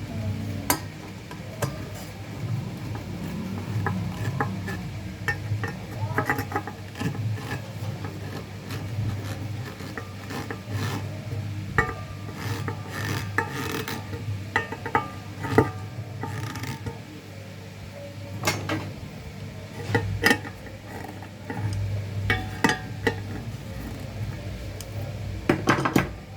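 Irregular clicks, taps and scraping from tools and small parts being handled, over a steady low hum.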